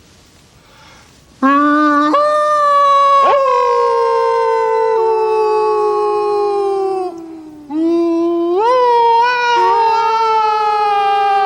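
Two men howling together in imitation of wolves: a long howl that rises and then slowly falls, a short break, then a second long howl.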